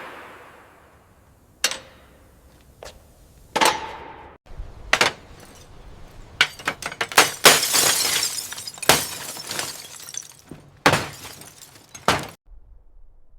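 Hard objects clinking and knocking: a run of sharp, irregular clinks, sparse at first and then thick and fast, that stops abruptly near the end.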